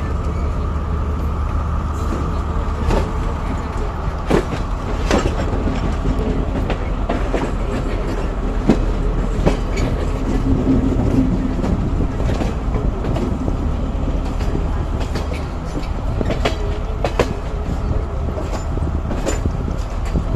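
Train running on the rails with a steady low rumble, its wheels clicking and knocking irregularly over rail joints and points.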